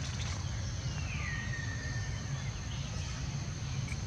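A baby monkey's high, thin cry that slides down in pitch and is held for nearly two seconds, starting about half a second in, over a steady high insect drone and a low rumble.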